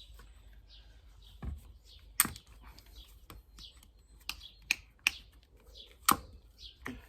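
Several sharp plastic clicks and knocks as a liquid-fertiliser bottle and its measuring cap are handled, with small birds chirping throughout in short falling notes.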